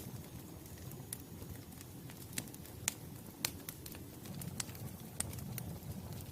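Wood fire burning with a low steady rumble, and sharp crackles and pops from the burning logs every second or so.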